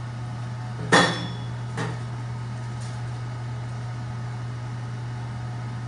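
A single sharp metallic clank with a brief ring about a second in, then two fainter knocks, over a steady low hum.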